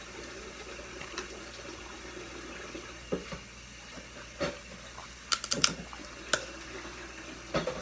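Steady hiss of a tap running, with a handful of sharp clicks and cracks, most of them bunched together about five to six seconds in.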